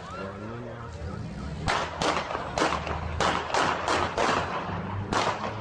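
A series of about eight sharp knocks or bangs at irregular intervals, over a steady low hum.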